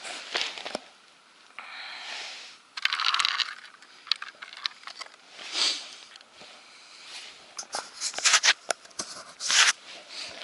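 Irregular crunching, scraping and rustling, with sharp clicks and a few louder crackling bursts near the end.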